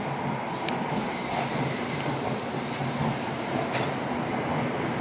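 Tobu Noda Line electric commuter train pulling into the platform and slowing, with steady running noise from wheels and motors. A couple of short high squeals come through, one near the start and one late in the arrival.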